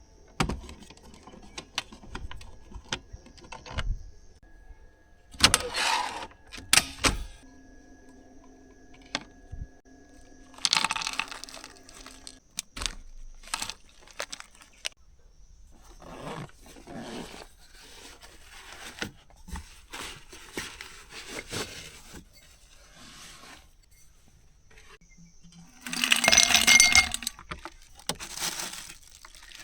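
Things being handled close up: a run of clicks and knocks with short bursts of rustling, the loudest near the end.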